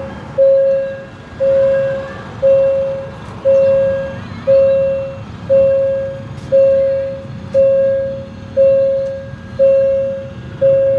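Railway level-crossing warning alarm beeping steadily, one electronic tone about every second, sounding while the crossing barriers are down for an approaching train. A low rumble of traffic lies underneath.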